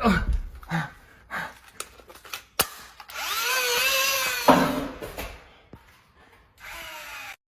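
A small electric motor whirs for about two seconds, its pitch rising and then falling, after a single sharp click; a second, shorter whir comes near the end.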